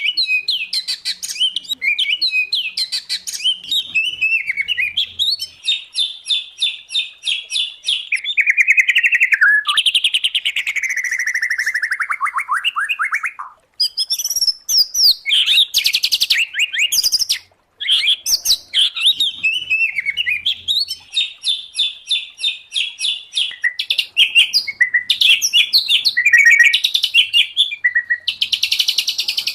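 Loud, continuous songbird song from a mixed recording of white-rumped shama, oriental magpie-robin and greater green leafbird: rapid repeated chips and trills alternating with whistled phrases, including one long falling phrase about a third of the way in. The song stops for two brief moments near the middle.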